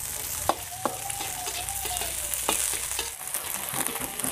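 Sliced shallots and spring onions sizzling in hot oil while being stirred, with a few clicks of the spatula against the pan.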